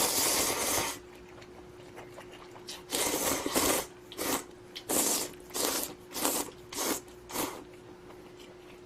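Close-miked slurping of spicy budae-jjigae ramen noodles. One long slurp comes first, then a run of about seven short, quick slurps.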